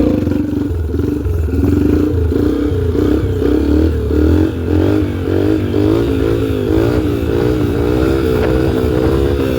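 A 2003 Yamaha TTR125L dirt bike's single-cylinder four-stroke engine revving hard in second gear for wheelies, its pitch rising and falling over and over as the throttle is worked.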